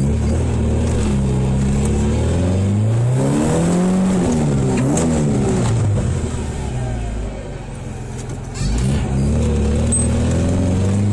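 1991 Honda Accord's four-cylinder engine running while driving, heard from inside the cabin, its pitch climbing and easing as the car accelerates, with a quieter off-throttle lull about seven seconds in before it pulls again.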